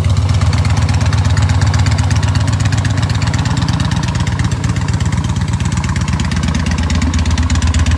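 Yamaha Stryker motorcycle's 1304 cc V-twin engine idling steadily.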